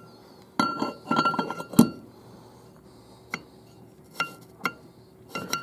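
Small metal transmission pump parts clinking and clicking against each other and the bench as they are handled, with a short ring after each hit. There is a quick run of clinks in the first two seconds, then a few single clicks.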